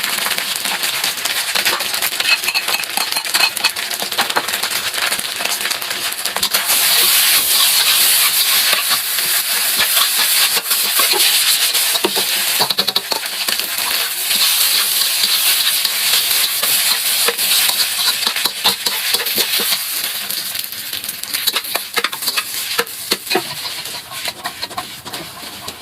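Fried rice sizzling in a hot pan as it is stirred, with frequent scrapes and clicks of the utensil against the pan; the sizzle thins near the end.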